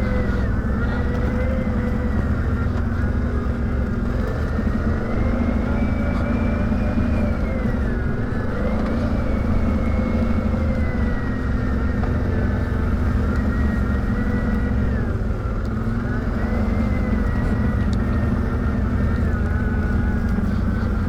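ATV engine running steadily at trail speed, with a whine whose pitch rises and dips gently as the throttle changes, easing off briefly about eight and fifteen seconds in.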